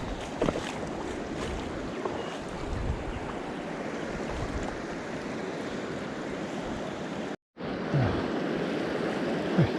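Steady rush of flowing river water, with a few faint clicks and a brief total dropout about seven and a half seconds in.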